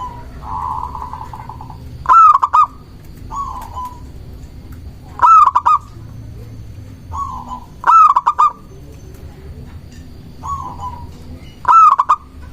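Zebra dove (perkutut) singing its cooing song. A loud cluster of quick, clipped coos repeats about every three seconds, four times, with softer single coos in between.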